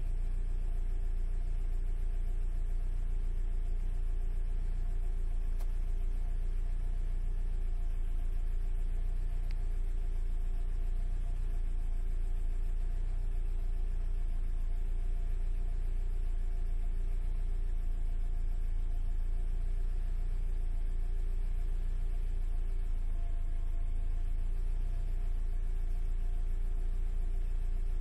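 Alfa Romeo 156 heard from inside the cabin: a steady low rumble of engine and road noise with a faint steady hum over it, unchanging throughout.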